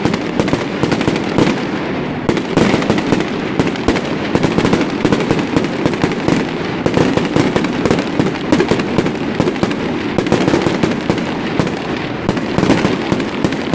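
Fireworks going off in a dense, continuous barrage: many sharp bangs and crackles overlapping without a break.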